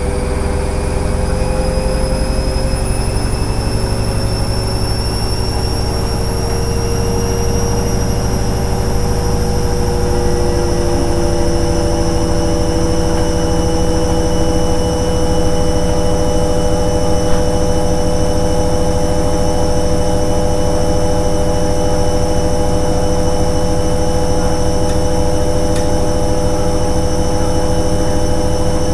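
Hoover Ecologic 800 automatic washing machine's motor whining as the drum speeds up into a spin, rising in pitch over roughly the first ten seconds and then holding steady.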